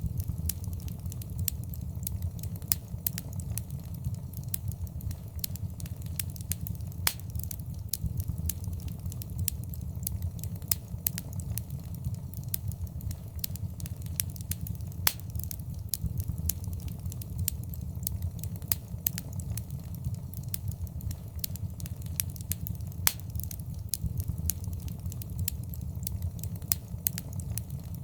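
Fireplace fire crackling: frequent sharp pops and snaps, a few louder than the rest, over a steady low rumble of the flames.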